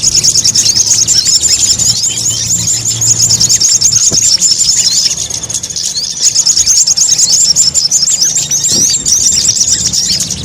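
Crimson sunbird (sogok ontong) lure call: a rapid, high-pitched twittering chatter of densely packed notes, with a short lull about halfway through. It is a recording played to attract the birds for trapping.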